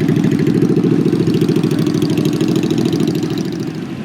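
Motorcycle engine running at low revs, its exhaust beat loud and steady, easing off slightly near the end.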